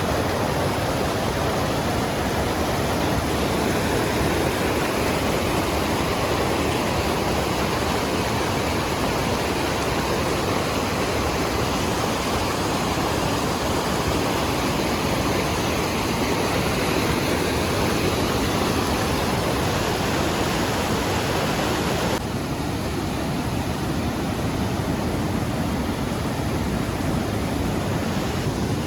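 Rushing water of a mountain waterfall, a steady dense rush of noise. About three quarters of the way through it changes abruptly to a slightly quieter, duller rush.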